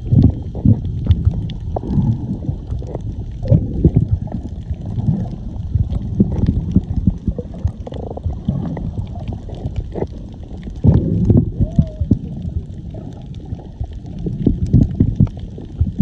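Muffled underwater water noise: sloshing and bubbling with frequent irregular low pops and knocks, as heard by a camera held in the sea while snorkeling.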